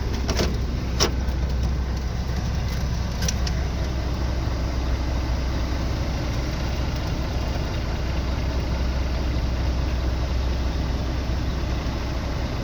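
Mercedes-Benz Actros truck's diesel engine idling steadily, with a few sharp clicks in the first three seconds or so.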